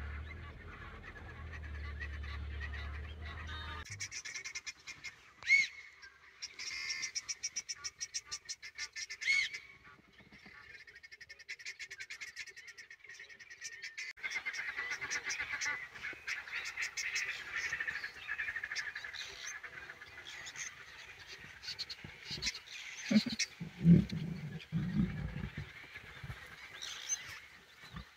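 Birds calling outdoors, with rapid runs of high chirps between about four and fourteen seconds in and more calls after. A low steady hum runs through the first few seconds.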